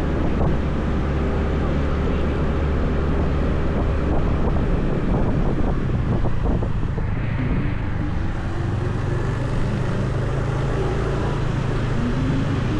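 Motorbike engine running on the move, with wind rushing over the microphone; the engine note shifts about five seconds in.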